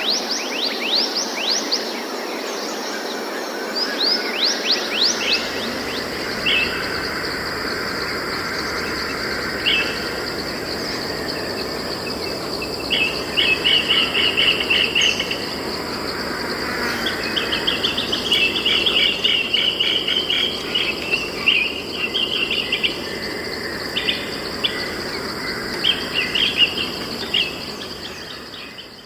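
Forest birds chirping, with quick sweeping notes early and bursts of fast trills later, over a steady high-pitched insect drone and a soft background hiss. The sound fades out near the end.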